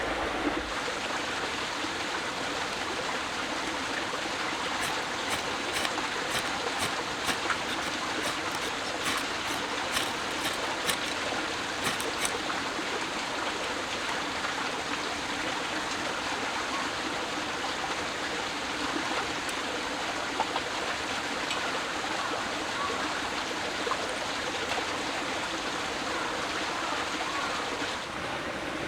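Steady rushing of running water, like a stream, with a run of sharp clicks in the middle.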